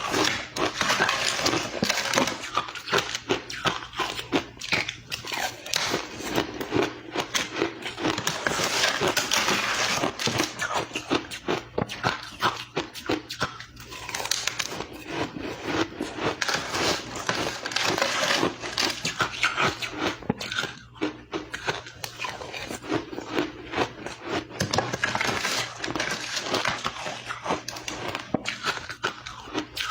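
Close-miked chewing and crunching of powdery crushed ice: rapid crackly crunches with no pause, coming in waves of denser chewing every several seconds.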